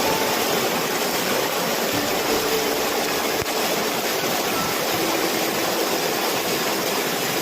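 Flowing stream water, a steady rushing with no breaks.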